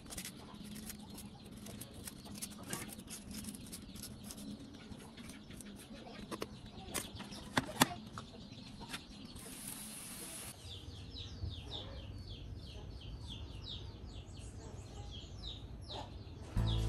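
Faint scattered clicks, a short hiss about ten seconds in, then small birds chirping quickly, a few short falling chirps a second. Music comes in right at the end.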